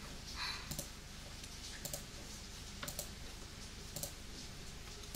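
Sharp single clicks from a computer keyboard and mouse, about one a second, over a steady hiss of heavy rain.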